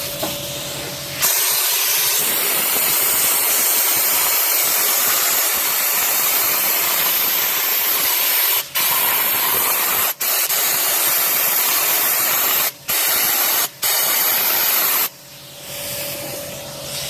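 Sandblasting gun firing compressed air and 30–60 grit garnet abrasive at steel in an engine bay: a loud, steady hiss broken by a few brief pauses. Before it starts, about a second in, and after it stops, near the end, a quieter steady machine hum is heard instead.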